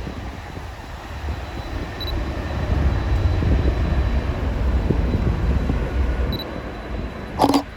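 Low, steady rumble of a jet airliner's engines heard from a distance. About 7.5 s in there is one short, sharp click, and a couple of faint high beeps sound before it.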